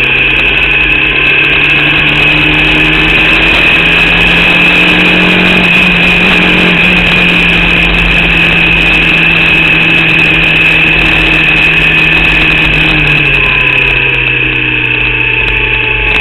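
Formula Vauxhall 8v single-seater's four-cylinder engine running at fairly steady revs under loud onboard wind and mechanical noise, the revs easing off a little near the end. The engine has a misfire and is down on power from an alternator/battery fault.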